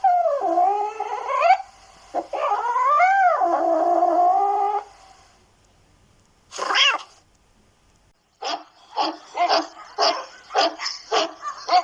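Two long, drawn-out cat meows that slide up and down in pitch, then a short call. In the last few seconds a dog barks rapidly, about three barks a second.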